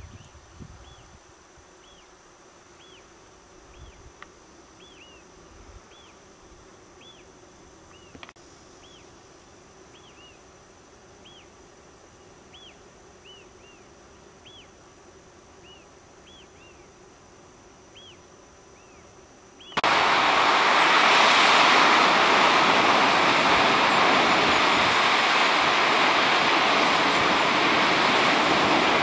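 Faint outdoor quiet with a low steady hum of bees and a run of short, high chirps about once a second. About twenty seconds in, the sound cuts suddenly to the loud, steady rush of a waterfall.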